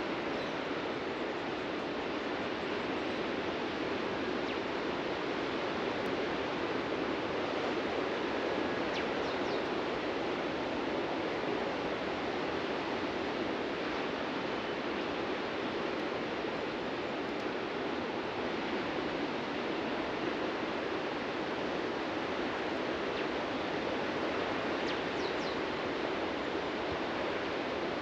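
Ocean surf breaking on a sandy beach, a steady unbroken wash of waves, with a few faint bird chirps about nine seconds in and again near the end.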